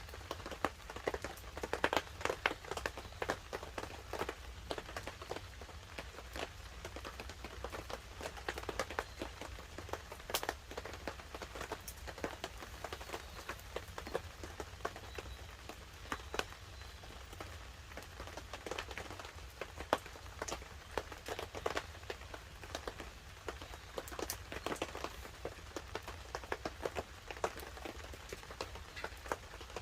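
Wood campfire crackling with irregular sharp pops, mixed with light rain falling on a tarp overhead. A steady low rumble runs underneath.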